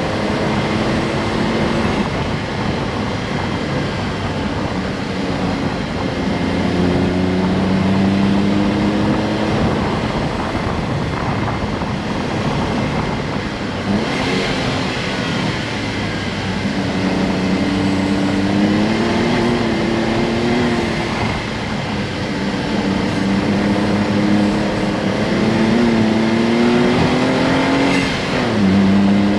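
Honda S660's turbocharged three-cylinder engine running as the car drives along, its pitch holding, rising and falling several times with the throttle and gear changes, with a dip and climb near the end, over steady road noise.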